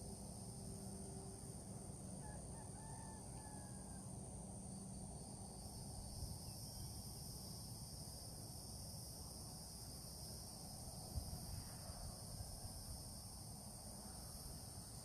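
Outdoor ambience of a steady high insect chorus, with a few faint bird calls and a low rumble of wind or distant traffic.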